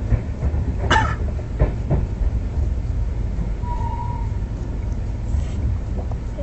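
Express passenger train running: a steady low rumble with a few sharp clacks between about one and two seconds in, and a brief faint tone near four seconds.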